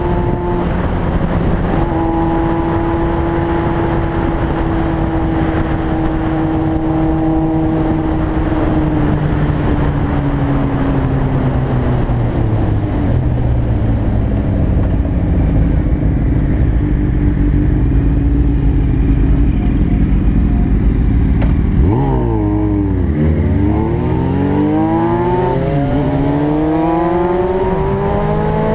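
Inline-four sport motorcycle engine running under way, with heavy wind rush on the microphone. Its note holds steady, sinks as the bike eases off, then about two-thirds of the way in it breaks and climbs steadily as the bike accelerates.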